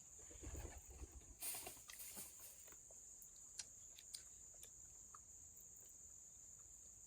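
Quiet background with a steady high-pitched insect drone, like crickets, throughout. Soft rustling and handling noises come in the first couple of seconds, and two small clicks follow in the middle.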